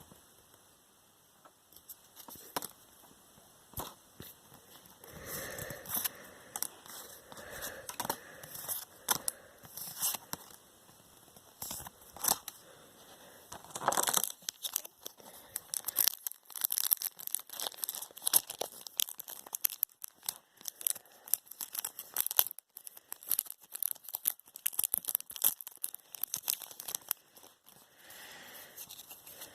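Packaging being torn open and crinkled by hand: irregular tearing, rustling and crackling, busier and louder in the second half.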